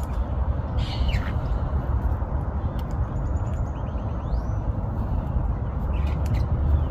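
A few short bird calls over a steady low rumble: a falling call about a second in, a quick run of short notes followed by a rising call around the middle, and another short call near the end.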